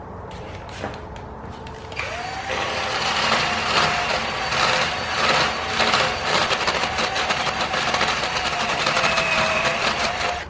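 A drill with a small grinding bit grinds curb rash off an aluminium wheel rim. About two seconds in, the motor's whine rises and then holds steady under a rough scraping of the bit against the metal. It stops sharply at the end.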